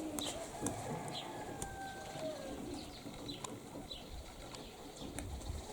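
Domestic pigeons cooing at the loft, with wind rumbling on the microphone and a short high chirp repeating every second or so.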